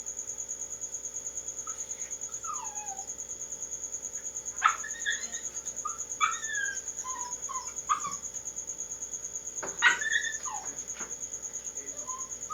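A cricket chirping steadily in a high, even trill of about eight pulses a second. Short squeaky animal calls that glide in pitch break in a few times, along with a few sharp clicks.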